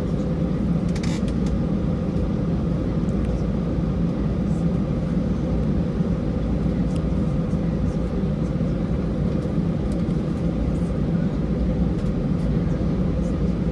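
Steady engine and cabin noise inside an Airbus A320 airliner: an even, unbroken rumble.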